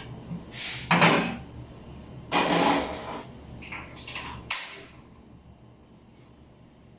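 Cookware and utensils being handled in a kitchen: a few clattering knocks and scrapes, the loudest about one second and two and a half seconds in, over a low hum that stops about four and a half seconds in.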